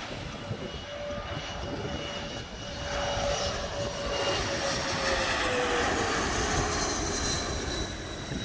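Aircraft flying past, its engine noise growing louder and its steady tone dropping slowly in pitch as it goes by.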